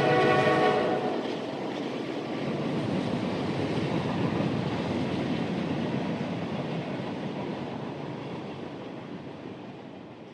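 A train horn's chord stops about a second in. After it comes the rumble of a moving train, which slowly fades away.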